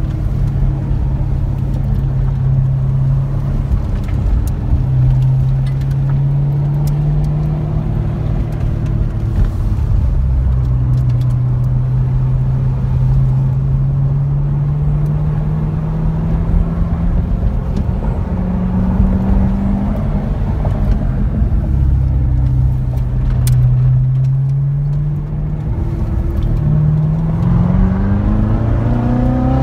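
Car engine during an autocross run, its note rising and falling with the throttle through the cone course. It climbs steadily in pitch near the end under hard acceleration.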